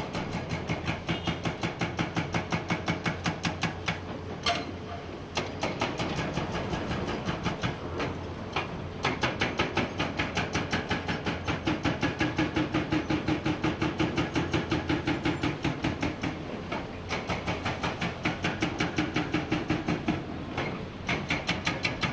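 Hydraulic breaker on a Komatsu PC490 excavator hammering rock: rapid, evenly spaced blows at about six a second, in runs of a few seconds with short pauses between, over the excavator's diesel engine.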